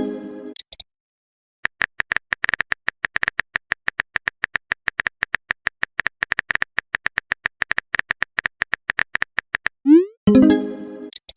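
Rapid, evenly paced typing clicks of a phone chat animation. Near the end comes a short rising swoosh and a pitched message-notification chime that fades out.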